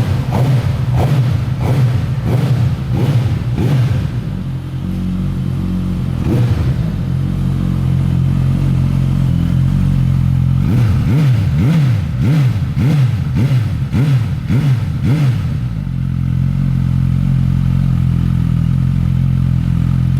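Suzuki GSX-S1000's inline-four engine idling steadily and being blipped on the throttle, with a run of quick revs in the first few seconds and another run of about half a dozen in the middle, each rising and dropping straight back to idle.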